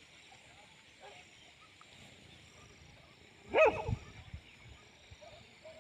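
A dog barks once, loud and short, about three and a half seconds in, the bark dropping in pitch. The rest is faint background.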